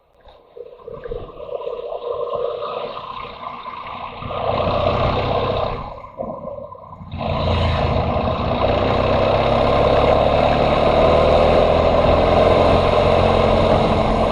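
Motorcycle engine pulling away and building up, dipping briefly about six seconds in, then running steadily at speed with wind rushing over the microphone.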